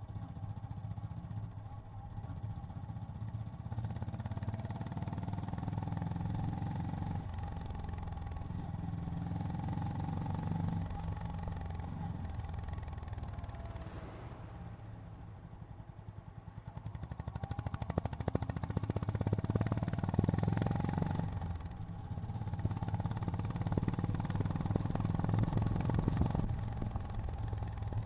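Honda GB350's air-cooled single-cylinder engine running on the road. It eases off to a quieter, lower note about halfway through, then pulls hard and louder again, with a brief dip before it settles into steady running near the end.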